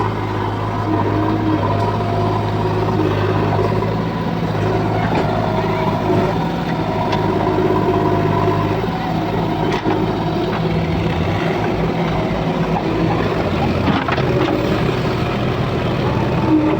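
Diesel engines of a JCB 3DX backhoe loader and tractors running steadily while working in mud. The deepest engine hum drops away about two-thirds of the way through and comes back near the end.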